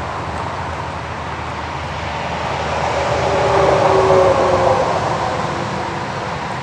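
A vehicle passing by over a steady outdoor background, its noise swelling to a peak about four seconds in and fading away, with a faint hum that drops slightly in pitch as it goes past.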